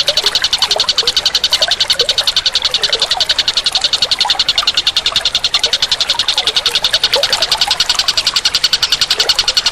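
Steady, rapid pulsing animal call, about ten pulses a second with no break, over faint short chirps lower in pitch.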